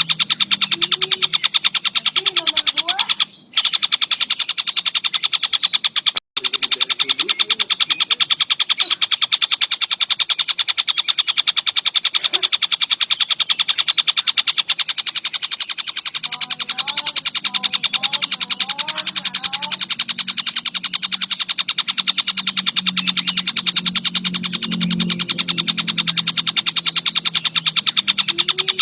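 Tengkek buto (collared kingfisher) chattering nonstop: a fast, unbroken run of sharp, high notes, cutting out briefly twice in the first few seconds. Fainter, lower wavering calls run underneath in the second half.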